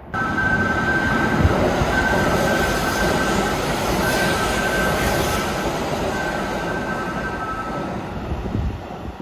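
Electric train running on the rails: a loud, steady rumble of wheels and running gear with a high wheel squeal that comes and goes. It starts suddenly and eases off slightly near the end.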